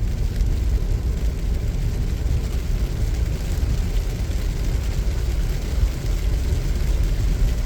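A car driving on a wet road, heard from inside the cabin: a steady low rumble of tyre, road and engine noise.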